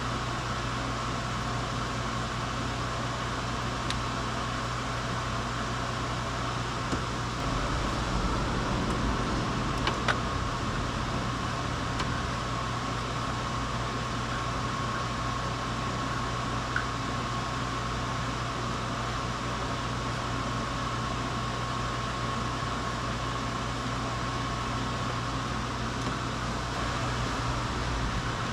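Steady mechanical hum with a faint continuous whine, with a few light clicks about ten seconds in and again a little later.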